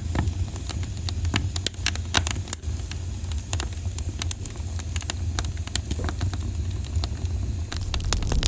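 Campfire crackling, with irregular sharp pops and snaps from the burning wood, several a second, over a steady low rumble.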